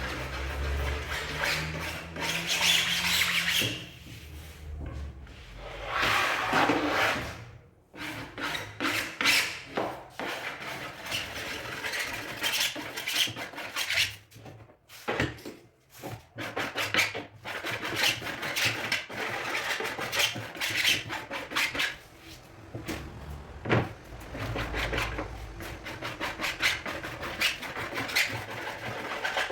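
Sandpaper rubbed by hand along the sawn edges of MDF panels in quick, irregular strokes, smoothing off the roughness left by the cut. There are short pauses between bouts.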